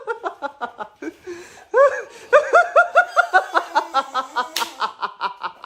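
People laughing in rapid ha-ha-ha pulses, about four a second, with a brief pause about a second in.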